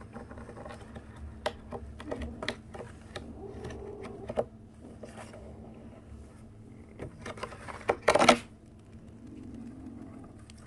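Irregular light clicks and taps, with a few faint kitten mews, and a short, louder scuffling noise about eight seconds in.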